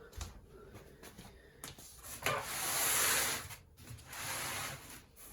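Packaging of a boxed tumble dryer being handled: two long rubbing, scraping sounds of about a second each, with a few small knocks.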